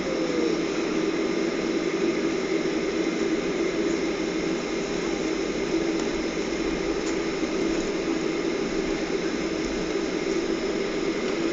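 Steady airliner cabin noise after landing: the jet engines at idle and the air-conditioning rush, with a constant low hum.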